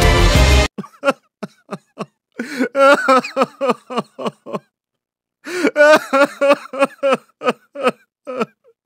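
Background music cuts off under a second in, then a person's voice makes a string of short vocal sounds, with no recognisable words, broken by pauses.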